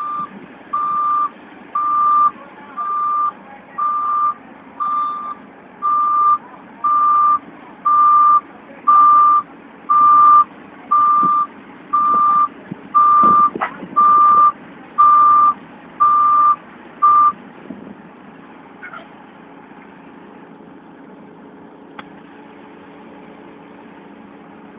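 A reversing vehicle's backup alarm beeping about once a second in a single steady high tone, over an engine running. The beeping stops about three-quarters of the way through, leaving the engine running, and there is one sharp knock partway through.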